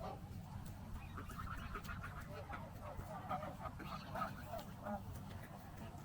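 Birds calling over and over in short, closely spaced calls that sound like the honks and quacks of waterfowl, over a steady low rumble.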